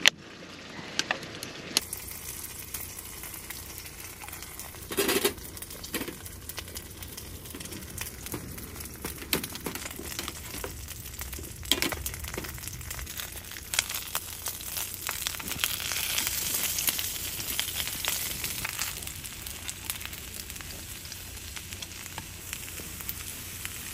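Knife clicking on a wooden cutting board for the first couple of seconds, then Korean blood sausage (sundae) sizzling steadily as it fries in a pan on a wood stove, with scattered clicks of metal tongs against the pan.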